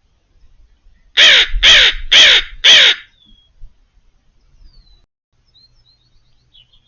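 An American crow cawing four times in quick succession, about half a second apart, followed by a few faint high bird chirps.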